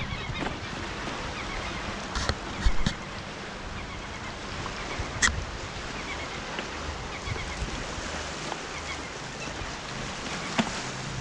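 Surf washing on the shore with wind on the microphone, a steady rushing noise, broken a few times by sharp clicks.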